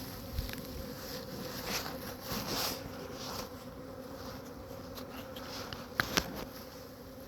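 Honeybee swarm buzzing in a steady hum, with two sharp clicks close together about six seconds in.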